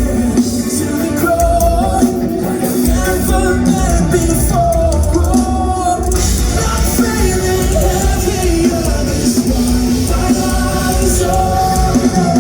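A rock band playing a song live, loud and continuous, with sung vocals over guitars, bass and drums.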